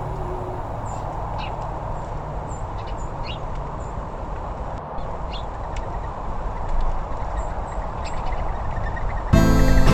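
Small birds calling with short, scattered chirps and chips over a steady outdoor background hum. Harmonica music starts abruptly near the end.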